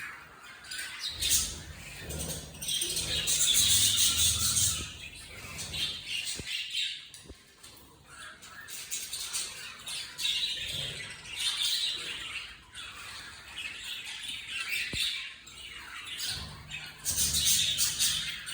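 Pet budgerigars chattering and squawking in bouts. The loudest stretches come in the first few seconds and near the end.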